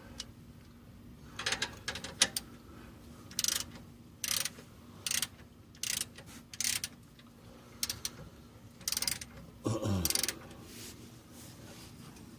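Ratchet wrench tightening exhaust clamp nuts: about ten short ratcheting strokes at uneven intervals, with a brief downward-sliding sound about ten seconds in.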